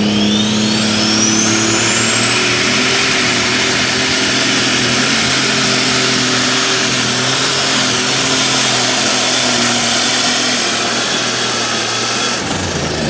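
Twin-turbocharged, alcohol-burning super stock pulling tractor engine at full power through a pull. A high turbo whine climbs over the first two seconds and then holds steady over heavy engine noise. The sound cuts off suddenly near the end.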